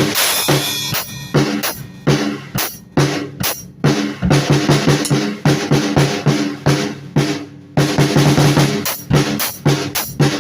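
Drum kit played loosely without a steady groove: quick kick and snare strokes, a cymbal crash at the start, and two short breaks in the playing.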